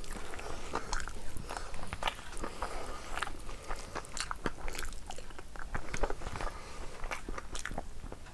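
A person chewing a mouthful of rice and mutton eaten by hand, with irregular wet mouth clicks.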